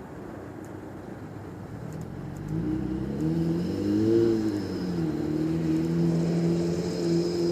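1987 Toyota pickup truck's engine: a low steady rumble, then about two and a half seconds in the engine note climbs, peaks, drops back and holds steady, as in a single rev or pull away.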